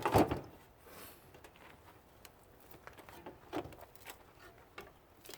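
Scattered light clicks and knocks of metal parts and hand tools being handled, with a louder clatter at the very start and a few small knocks past the middle.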